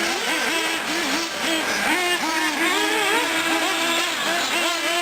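Several nitro R/C trucks and buggies with small two-stroke glow engines, their high engine notes overlapping and constantly rising and falling as they rev and back off around the track.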